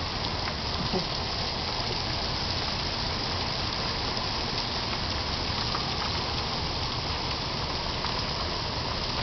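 Heavy rain with the last of the pea-sized hail coming down: a steady, even hiss of falling water and ice.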